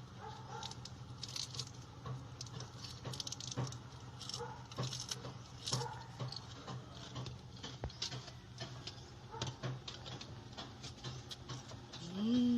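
Fresh insulin-plant leaves being chewed, heard as irregular soft clicks and crackles. Near the end there is a short call that rises and then falls in pitch.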